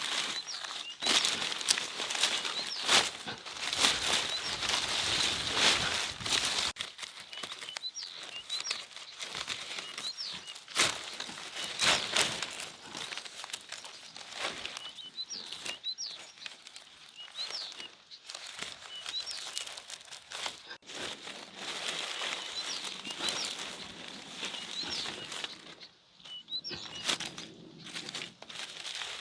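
Continuous rustling and crinkling of dry material being handled, with small birds chirping now and then in the background.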